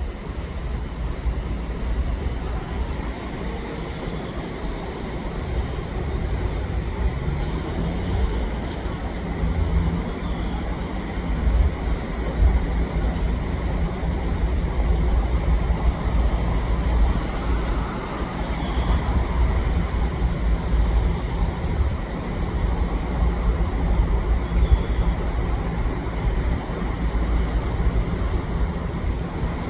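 Double-stack freight train passing, with a GE ES44AC diesel locomotive and the steady rolling noise of the stack cars on the rails.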